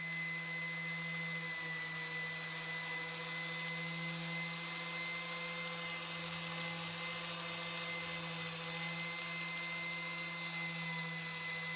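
An electric power tool running steadily at constant speed: a steady hum with a high hiss over it.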